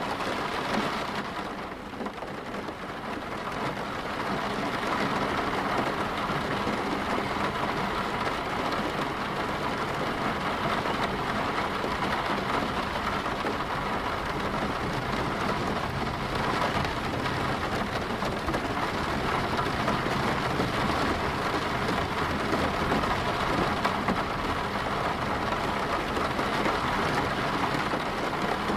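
Steady rain falling, a continuous rain ambience track. It goes briefly softer about two seconds in, then holds level.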